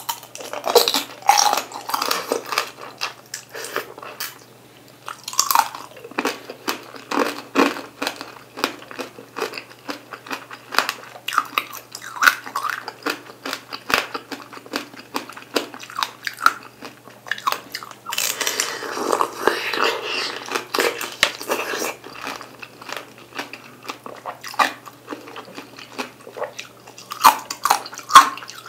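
Biting and chewing a tangerine tanghulu: the hard sugar shell cracks and crunches between the teeth in many irregular clicks, mixed with wet chewing of the fruit.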